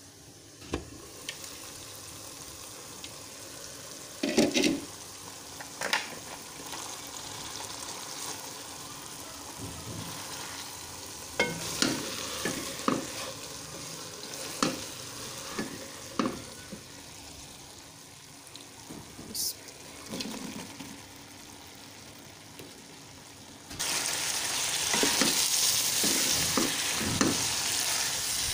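Minced-meat curry with peas, potatoes and green capsicum sizzling in a non-stick pot on a gas stove, while a wooden spoon stirs it and knocks against the pot. The sizzling suddenly grows much louder near the end.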